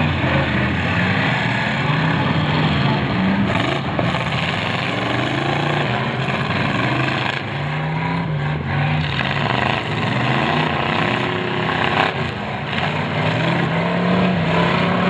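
Several demolition derby cars' engines revving up and down, their pitch rising and falling as they accelerate and back off, with a short sharp knock about twelve seconds in.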